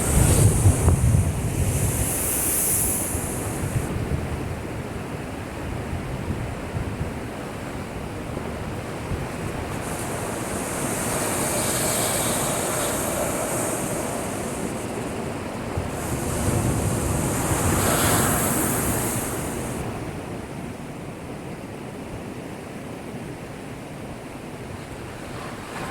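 Heavy surf from a typhoon-driven swell: waves breaking and washing in a continuous rushing roar. There is a loud deep surge at the start and two more swelling surges, about halfway through and around three-quarters through, then the wash eases off near the end.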